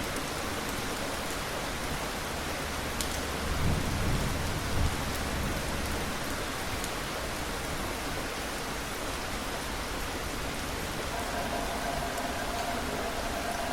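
Steady rain falling, with a low rumble of thunder swelling about three and a half seconds in and fading within about a second and a half.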